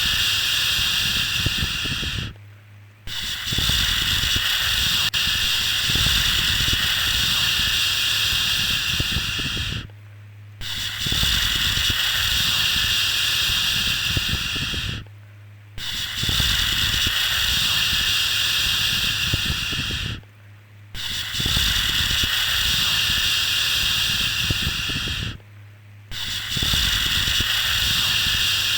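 A long 'shhh' shushing sound, repeated over and over: each shush lasts about five seconds, with a short pause of about half a second between them. It is the steady soothing sound used to settle a baby to sleep.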